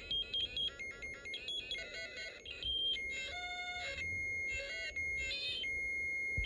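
Electronic sound effects from a Snap Circuits Sound kit's speaker, set to a high pitch with the adjustable resistor. Quick short beeps and chirps for the first three seconds or so, then a steady high tone broken by several warbling bursts.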